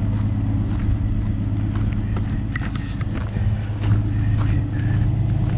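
Truck engine idling steadily, a low even drone, with a few faint knocks over it.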